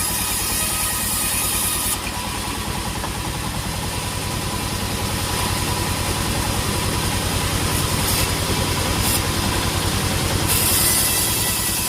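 Sawmill engine running steadily with a fast, even low beat. A high hiss over it drops away about two seconds in and comes back near the end.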